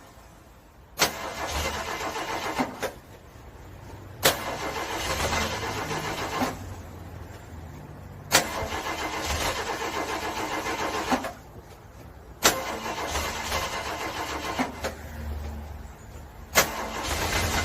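A cold car engine cranking on its starter in freezing weather and failing to start. There are five attempts, each opening with a sharp click as the starter engages and turning over rapidly for two to four seconds before stopping.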